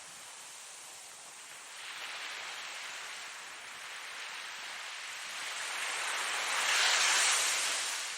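Ocean surf: waves breaking and washing in as a hiss that swells and fades, with the biggest wave about seven seconds in.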